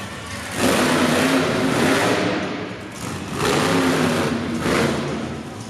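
Monster truck engine revving hard in two long bursts, the first from about half a second in to near three seconds, the second from about three and a half to five seconds.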